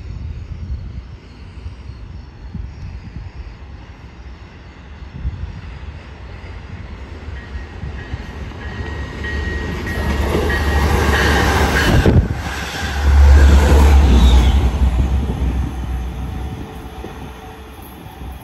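Commuter train approaching and passing through a station, its wheels rumbling on the rails: the sound grows from a distant rumble to its loudest about two-thirds of the way through, then fades. A faint high tone rings as the train nears.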